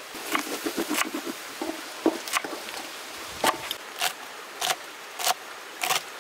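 About a dozen sharp, irregular clacks and knocks of kitchen utensils while cooking vegetables for pulao.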